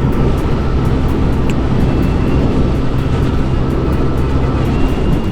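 Yamaha Aerox scooter's single-cylinder engine running at a steady cruising speed, with road and wind noise from riding.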